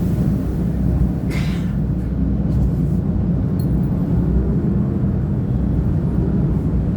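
CP diesel railcar UDD 0467 under way, its engine and running gear giving a steady low rumble. A brief hiss about a second in.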